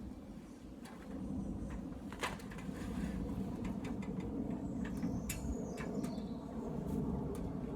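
Pigeon cooing, with a couple of sharp knocks.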